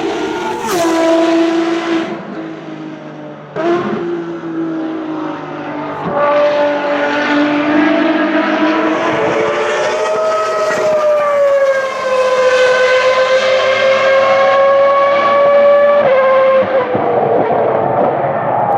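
Ferrari racing cars' engines at high revs passing on a race circuit. A sharp pass about a second in drops in pitch, a second car follows a few seconds later, and a long engine note in the middle dips and then holds steady before changing near the end.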